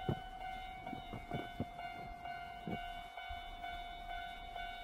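Electric train on the rails: a steady high tone with several overtones runs throughout, with a few short low clunks in the first three seconds.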